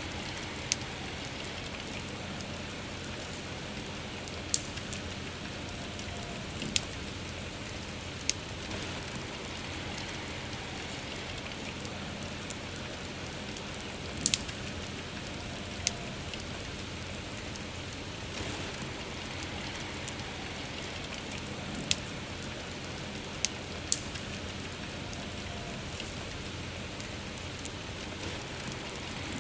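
Soft, steady rain hiss with a wood fire crackling over it: sharp, irregular pops every second or two.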